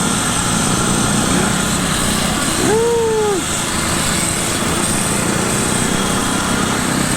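Steady mix of wind and running noise from riding electric bikes in a group. About three seconds in comes a short tone that rises and then falls.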